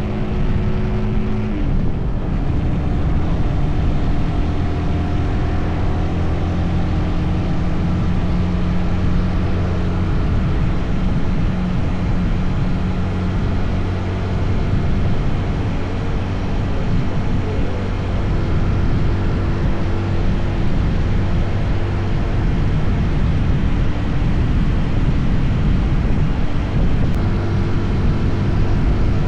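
SYM NH 180 motorcycle engine running steadily while riding, under a constant rush of wind and road noise. The engine note shifts about a second and a half in, then holds steady.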